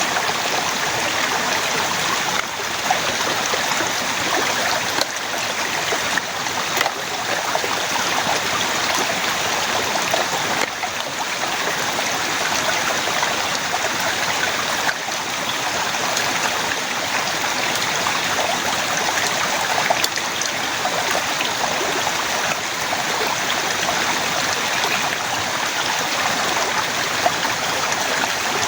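Steady rushing water, an even hiss at constant loudness with a few faint ticks.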